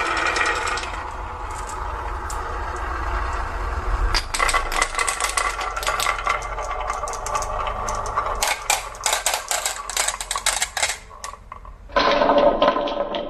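Marbles rolling and clattering down a wooden HABA marble-run track, with many quick clicks through the middle. Near the end the sound changes abruptly to a duller clatter.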